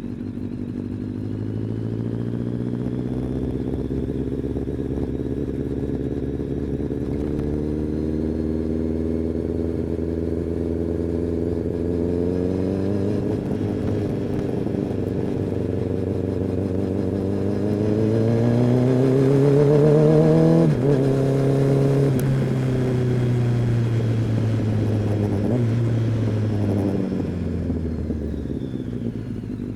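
Kawasaki ZX-10R inline-four engine and exhaust under way, its pitch climbing steadily as the bike gathers speed. It rises to its loudest about twenty seconds in, drops sharply in pitch, then holds and falls away near the end as the bike slows.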